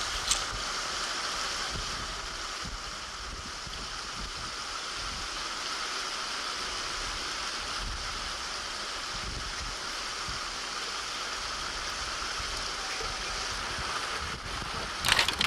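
Steady rushing of river water pouring over a weir. A few sharp clicks come near the end.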